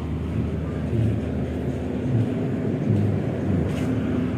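Steady low drone of a diesel generator running, with uneven low thumps over it.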